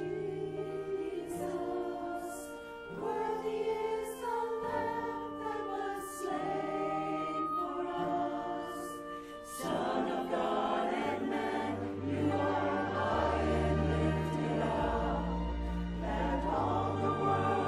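Church choir singing a hymn-style song with instrumental accompaniment. It swells fuller and louder about halfway through.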